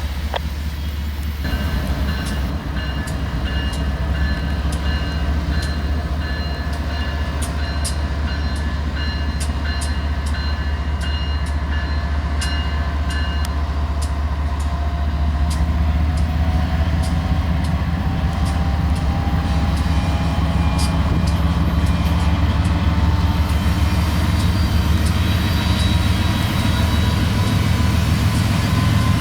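Freight train rolling past with a steady low rumble from the locomotive and cars, and scattered sharp clicks from the wheels on the rails. A faint tone slowly rises in pitch through the second half.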